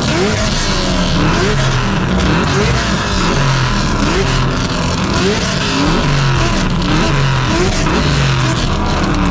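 Car engines held on two-step launch limiters, revving loud and continuously, with quick rising rev blips repeating about every half-second to a second.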